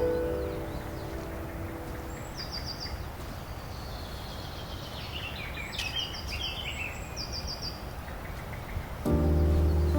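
Birds chirping over a steady background hiss: a short, fast series of high notes repeats several times, and a longer run of chirps steps down in pitch in the middle. Background music fades out at the start and comes back in about a second before the end.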